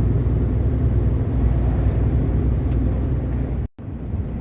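Diesel truck engine running, heard from inside the cab as the truck drives slowly on the highway: a steady low rumble. The sound cuts out completely for a split second near the end.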